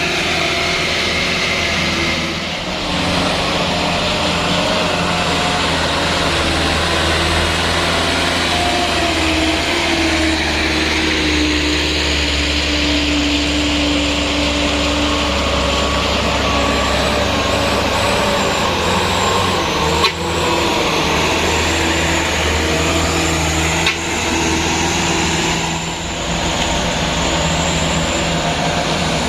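Truck engine running steadily under load, its pitch drifting slowly up and down, with a single sharp knock about twenty seconds in.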